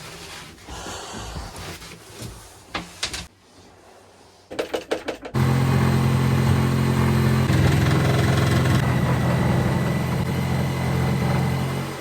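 A few knocks and clicks, then about five seconds in an electric power tool switches on and runs steadily with a thin high whine for the rest of the time, while fiberglass and plywood berth fittings are being cut out.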